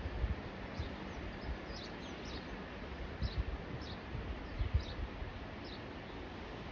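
A small bird chirping repeatedly, short high calls about once or twice a second, over wind rumbling and buffeting on the microphone.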